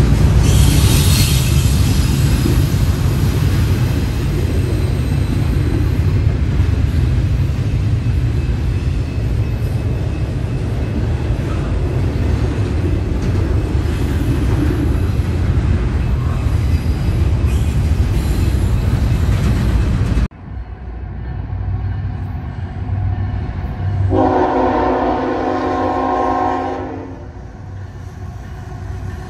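A CSX freight train rolling past close by with a loud, steady rumble of wheels on rail, which cuts off suddenly about two-thirds of the way in. Then a locomotive air horn sounds one chord for about three seconds, starting again right at the end.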